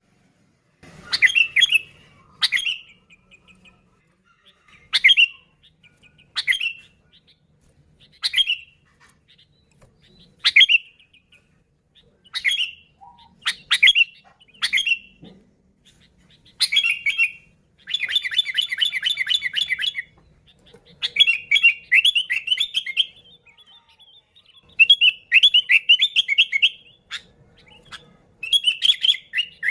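Sooty-headed bulbul (kutilang) calling: short bright notes repeated every second or two, then from about halfway on longer, rapid chattering phrases.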